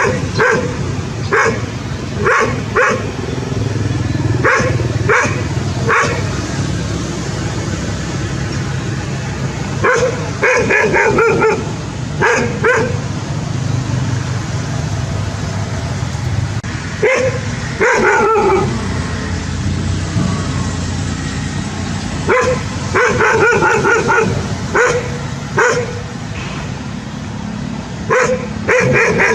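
Dog barking in short, high-pitched runs of several barks, coming every few seconds, with a drawn-out falling yelp about 18 seconds in. A steady low hum runs underneath.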